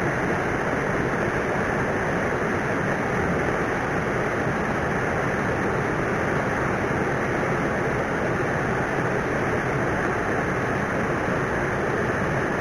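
Steady rushing noise of flowing river water, even and unchanging.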